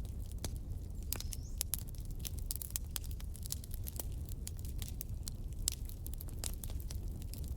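Wood fire in a fireplace crackling: irregular sharp pops and snaps over a low steady rumble, with a brief high whistle about a second in.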